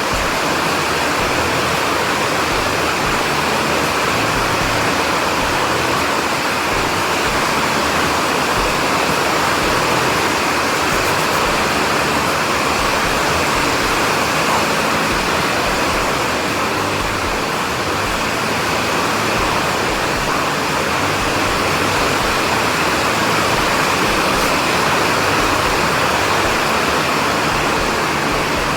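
Heavy rain falling in a steady rushing hiss that neither swells nor breaks.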